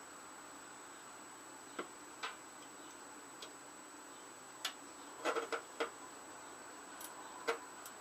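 Hand tools clicking and tapping on the engine while bolts are worked loose: scattered sharp metallic clicks, with a quick run of about four clicks about five seconds in and a louder one near the end.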